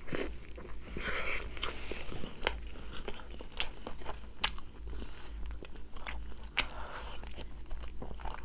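A person chewing a mouthful of food, with many sharp, irregular clicks of biting and chewing.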